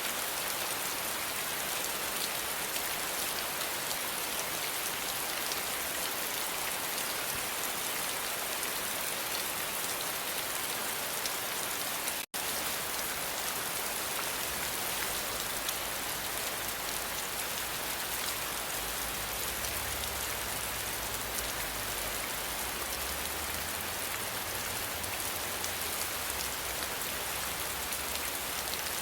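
Steady rain falling, an even hiss of many drops. The sound cuts out for a split second about twelve seconds in, and after that a low rumble sits underneath the rain.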